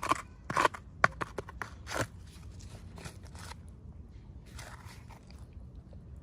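Plastic packaging crinkling and clicking as it is handled and opened: a quick flurry of sharp crackles and clicks over the first two seconds, then a shorter rustle about three quarters of the way through, over a faint low hum.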